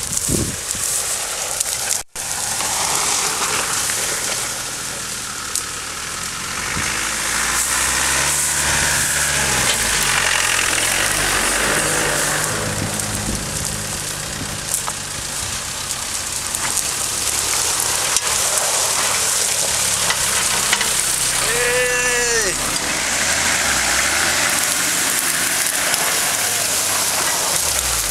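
Off-road 4x4 engines running at low revs as the trucks crawl over a steep grassy mound, under a broad steady hiss. About three-quarters of the way through, a person gives one short shout.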